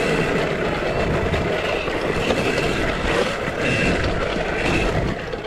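A KTM SX-E5 electric minibike being ridden on a dirt track: steady running noise and clatter, with a faint high motor whine that rises and fades.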